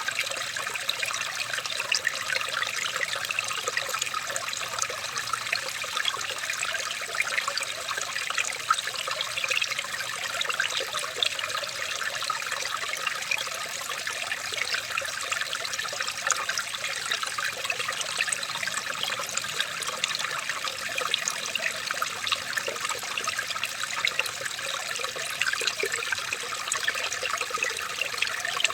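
Running water trickling steadily, a constant babble of many small splashes and droplets.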